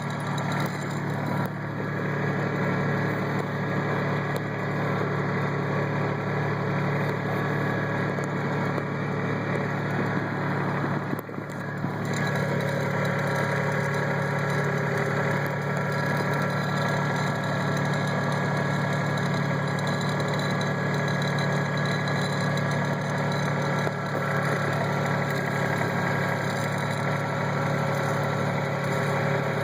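Kubota tractor's diesel engine running steadily under way, with a brief dip in level about eleven seconds in.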